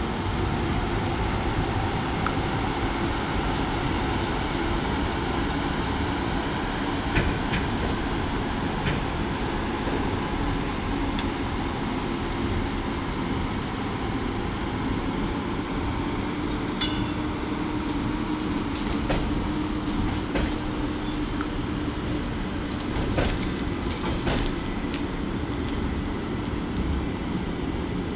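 Passenger coaches of a departing express train rolling slowly past, wheels clicking over the rail joints. There is a brief high-pitched squeal about two-thirds of the way through.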